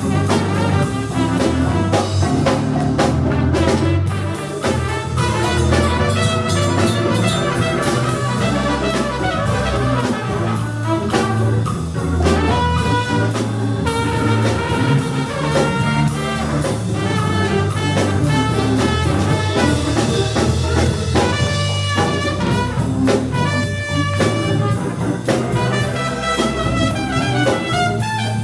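A live jazz band playing an instrumental number at a steady volume, with brass instruments and a drum kit keeping a regular beat.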